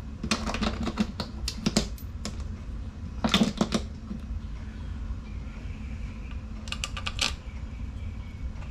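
Quick light metallic clicks and rattles of the sump-cover bolts being handled and set into the cover. They come in three bunches: a longer run of clicks at the start, a short bunch a little past three seconds, and another about seven seconds in.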